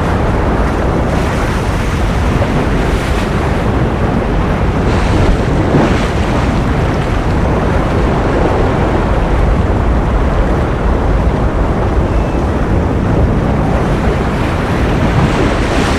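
Ocean surf: a steady, dense rush of waves, swelling a little about five seconds in and again near the end.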